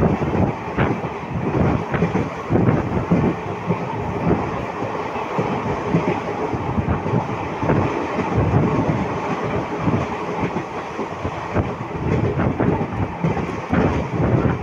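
Indian Railways passenger coach running at speed, heard from aboard: a steady rumble of wheels on rail with frequent, irregular clickety-clack knocks.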